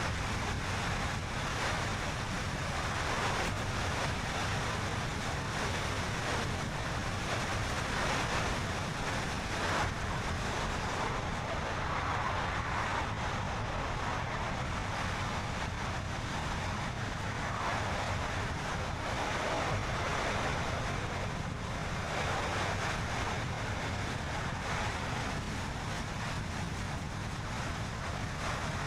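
Steady road noise from a car driving at a constant speed: tyres rumbling on the road and wind rushing past, rising and falling gently without any distinct events.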